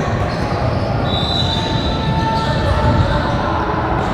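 Indoor game noise in a large hall: a ball bouncing on a hard floor amid voices, with a couple of brief high tones between about one and two and a half seconds in.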